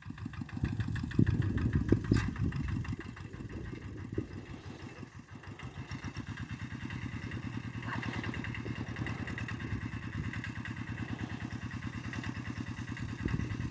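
A small tractor's engine running steadily with a fast, even pulse. It drops in level about five seconds in, then holds steady again.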